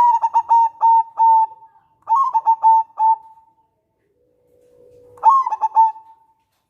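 Zebra dove (local perkutut) cooing: three bursts of quick staccato coo notes, each about a second long, with a faint low drawn-out note just before the third burst.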